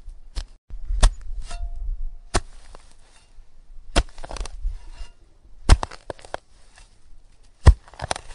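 A small metal digging tool striking and scraping through damp sand, giving sharp clicks at irregular intervals, each followed by a brief rustle of sand.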